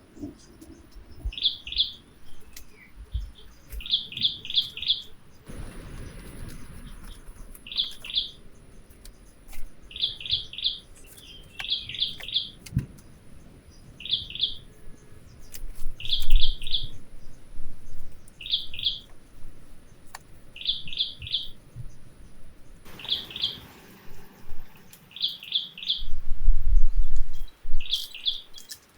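A bird calling: short high chirps in quick clusters of two to four, repeated every second or two. Low rumbling bursts come once in the middle and again near the end, and these are the loudest part.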